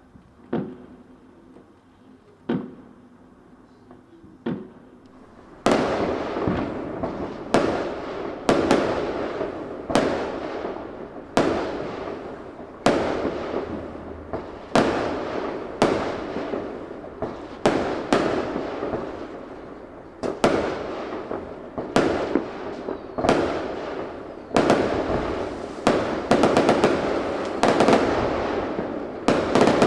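Fireworks going off: a few separate bangs, then from about six seconds in a steady barrage of loud bangs, about one a second, each trailing off.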